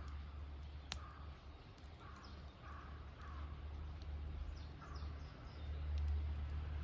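Campfire crackling, with faint ticks throughout and one sharp pop about a second in, while birds call in the background.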